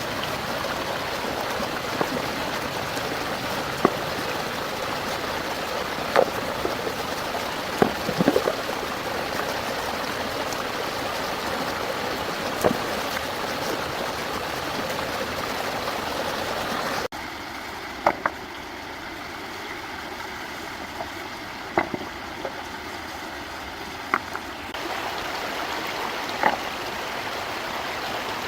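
Running stream water, a steady rush, with short sharp knocks or splashes every couple of seconds. The rush drops suddenly about two-thirds of the way through and rises again near the end.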